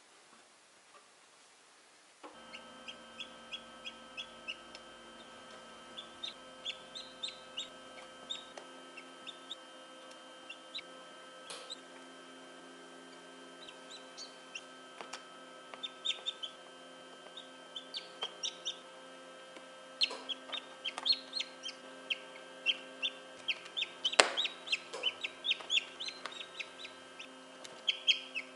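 Newly hatched chick peeping in short, high cheeps over a steady hum, starting about two seconds in; the peeps grow louder and come faster near the end.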